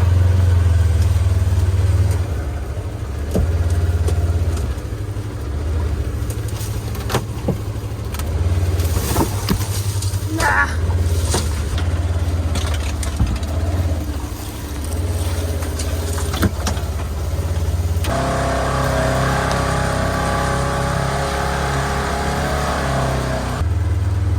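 Vehicle engine running and pulling through woods, its low hum rising and easing with the load, with a few sharp knocks. About three-quarters of the way in the engine note changes to a steadier, higher hum for several seconds.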